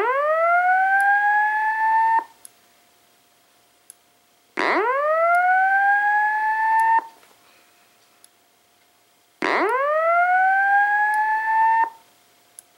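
Simplex 2902-9732 LifeAlarm fire alarm speaker sounding a slow whoop evacuation tone: three rising sweeps of a little over two seconds each, separated by pauses of about two and a half seconds.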